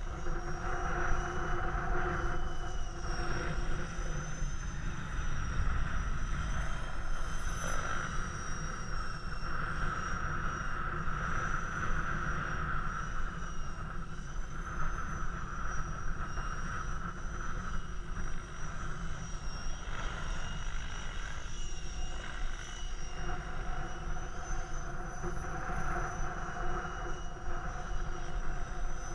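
KDS Innova 700E electric RC helicopter in flight: the whine of its SAVOX motor and rotor runs steadily throughout, wavering slightly in pitch. Wind rumbles on the microphone underneath.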